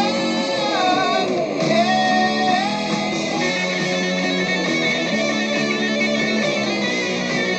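Hard rock recording: electric guitar playing a lead line that glides down in pitch in the first second or so, then holds notes over rhythm guitar and bass, with no vocals.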